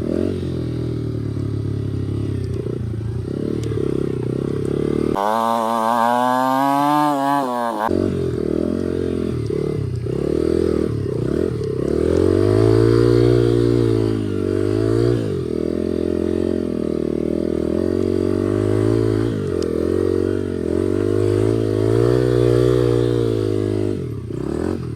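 2003 Honda XR80 dirt bike's small single-cylinder four-stroke engine, exhaust baffle removed, running while ridden on a trail. The engine speeds up and drops back again and again, with a quick run of rising and falling revs about six seconds in.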